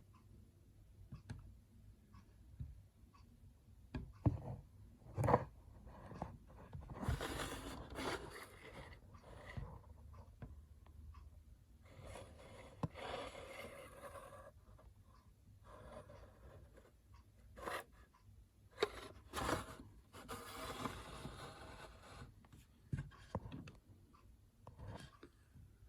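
Faint handling noises indoors: irregular scraping and rubbing with scattered clicks and knocks, the sharpest knock about five seconds in.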